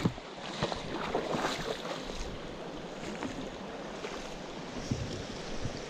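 Mountain stream running steadily, with a few brief clicks or small splashes in the first couple of seconds.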